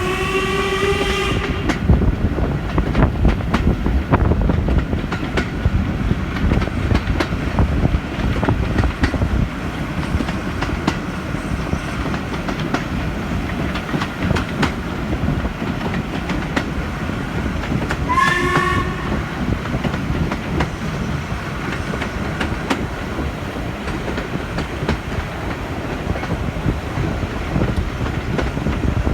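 Steam train of Ivatt Class 2 No. 46512 running along the line with a steady rumble and clicking over the rail joints. The locomotive's steam whistle sounds twice, briefly, each time rising a little in pitch: once at the start and again about two-thirds of the way through.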